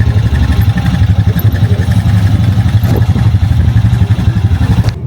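A vehicle engine running steadily with a loud low rumble, which cuts off abruptly about five seconds in.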